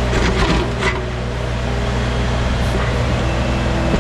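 Wacker Neuson mini excavator's diesel engine running steadily under work, with a few short scraping knocks from the bucket in the first second.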